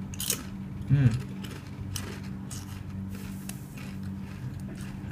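A person biting into a crunchy wavy potato crisp and chewing it: a sharp crunch near the start, then a run of irregular crisp crunching.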